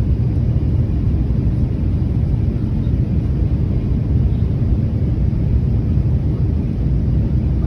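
Airliner cabin noise heard from inside the cabin: a steady low rumble, with no sudden changes.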